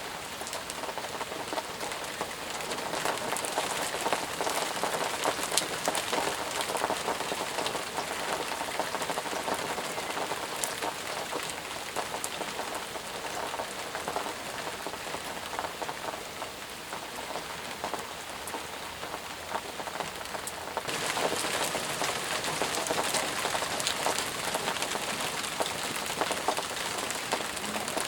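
Steady rain falling, an even hiss full of separate drop ticks. About two-thirds of the way through, the sound abruptly turns brighter and hissier.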